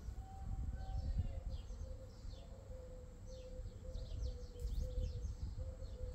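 Small birds chirping repeatedly, many short quick chirps that fall in pitch, over a steady low hum and a rumble of outdoor background noise.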